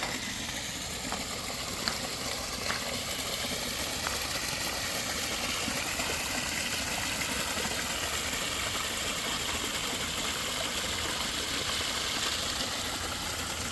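Steady rush of running, splashing water in a koi pond, with a few faint ticks in the first few seconds.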